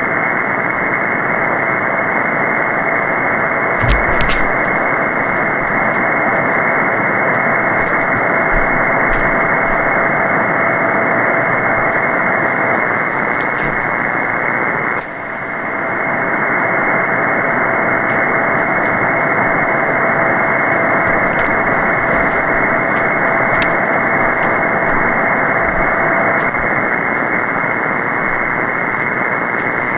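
Shortwave single-sideband receiver hiss and static on the 20-metre band, cut off sharply above about 2 kHz, with no voices. A steady whistle tone from a carrier runs through most of it and breaks briefly about halfway. Band conditions were poor because of a major geomagnetic storm.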